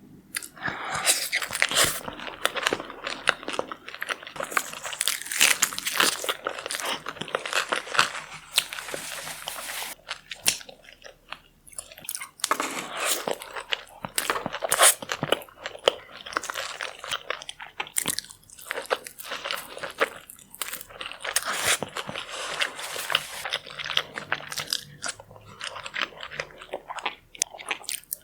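Close-up eating sounds: a person biting and chewing, with dense, irregular crunching and crackling and a few short pauses between bites.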